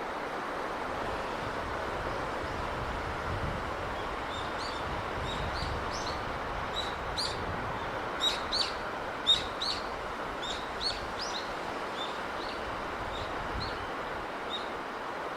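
A steady rush of sea breeze and surf, with a small bird chirping over it: a quick run of short, sharp chirps that starts a few seconds in, is busiest in the middle and thins out near the end.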